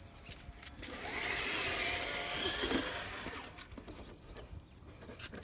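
Traxxas TRX4 RC crawler driving briefly, its electric motor and geared drivetrain whirring for about two and a half seconds before dying away.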